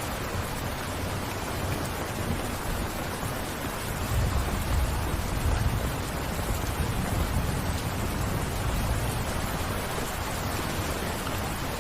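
Steady rain falling. A low rumble swells about four seconds in and fades over the next several seconds.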